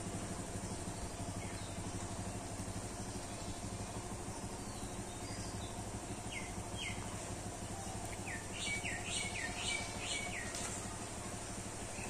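Small birds chirping: a run of short, quick, falling chirps from about six seconds in until near the end, over a steady low outdoor hum.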